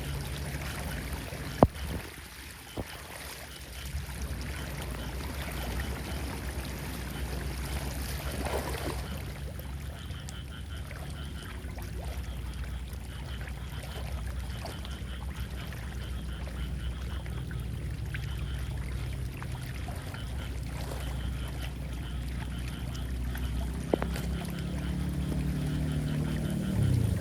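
Floodwater rushing steadily down a drain, with a few sharp knocks.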